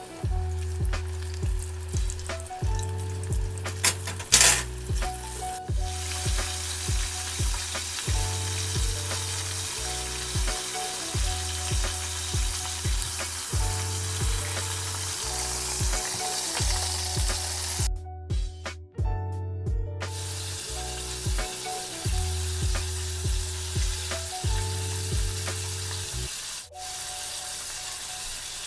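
Chicken pieces deep-frying in a pot of hot oil, giving a steady sizzle that drops out briefly about two-thirds of the way through, under a hip-hop backing track with a steady heavy beat.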